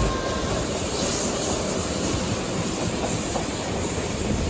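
Steady rumble and rattle of a steam-hauled passenger train running on the track, heard from aboard the train behind locomotive 3801.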